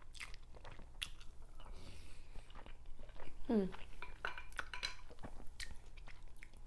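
Close-miked chewing and crunching of shell-on shrimp, with many sharp clicks and crackles.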